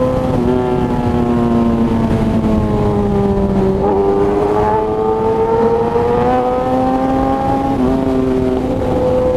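Kawasaki ZX-10R's inline-four running through an SC Project aftermarket exhaust while under way, heard over wind rush. The engine note steps in pitch about 4 s in and again near 8 s, and climbs steadily in between.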